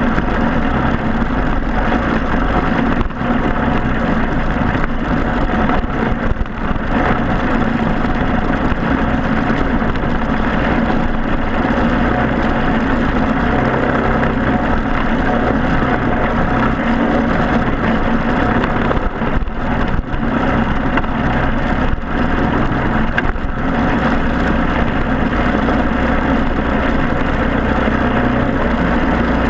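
Briggs & Stratton Animal single-cylinder four-stroke kart engine running steadily under power, its pitch holding nearly level with only a few brief dips.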